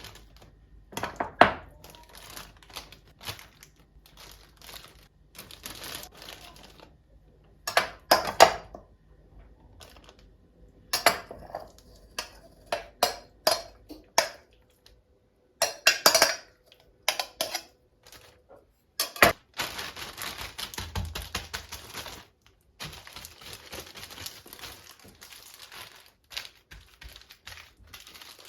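Kitchen handling sounds: a series of short clinks and clatters of dishes and utensils, mixed with crinkling of plastic. About two-thirds of the way through it turns to a denser, continuous rustling.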